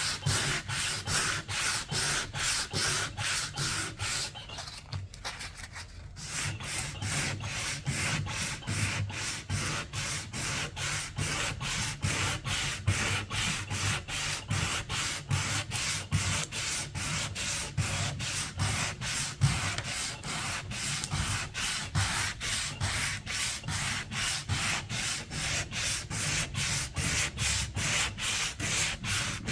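Hand sanding: sandpaper rubbed back and forth in even, rhythmic strokes, a little over two a second, with a brief pause about five seconds in.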